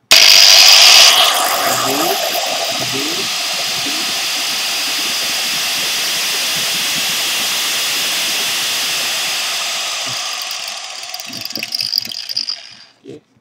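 Angle grinder motor running through a dimmer speed controller: it starts with a loud surge for about a second, then runs with a steady whine at a lower level. It fades over the last few seconds, with a short rise near the end, before cutting off.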